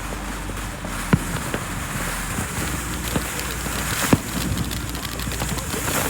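Two sharp firework pops, about three seconds apart, the second the louder, over a steady crackling hiss.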